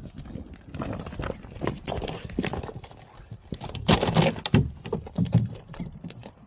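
Two bulls fighting: a dense run of knocks, thuds and scuffing, loudest about four seconds in.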